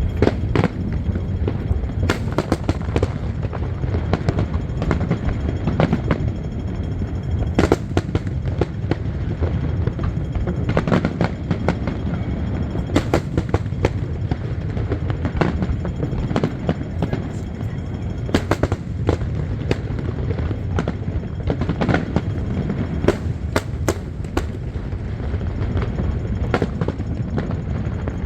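Aerial fireworks display: a continuous low rumble of bursts with many sharp bangs, some in quick clusters.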